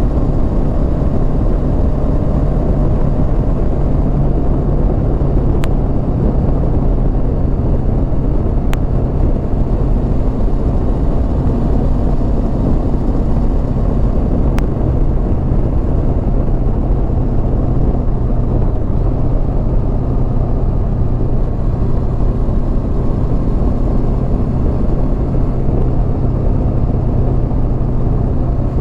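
Honda CB500X parallel-twin engine running at a steady cruise with a constant engine hum, under heavy wind rush on the microphone.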